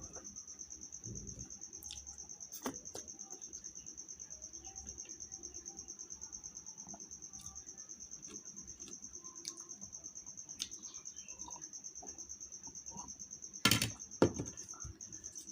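Cricket chirping in a steady, rapidly pulsing high trill, with a sharp knock about three seconds in and two louder knocks near the end.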